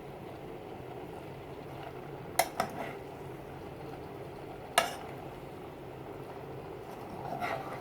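A cooking utensil clinking against a pan while stir-fried vegetables are stirred: two quick knocks about two and a half seconds in, a single sharper knock near the five-second mark, and a softer scrape near the end, over a steady low background noise.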